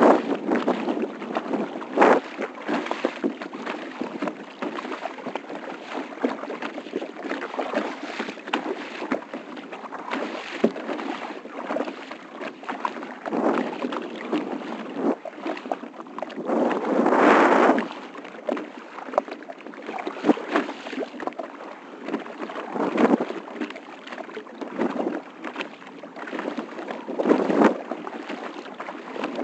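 Water splashing and lapping around a kayak, with louder surges every few seconds, the longest about two-thirds of the way through, and wind buffeting the microphone.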